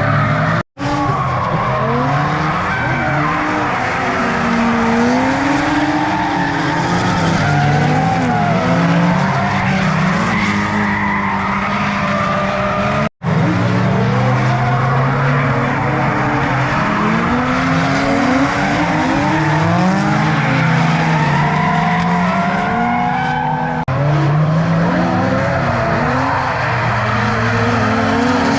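Several drift cars running together in a train: overlapping engine notes revving up and down on and off the throttle, with tyres squealing and skidding. The sound cuts out abruptly for an instant twice, once just after the start and once about halfway.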